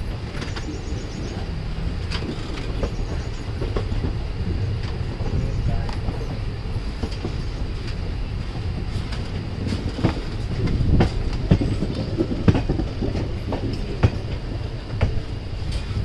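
A moving passenger train heard from its open doorway: a steady running rumble and rattle, with the wheels clacking over rail joints. The clacks come thicker and louder in the second half.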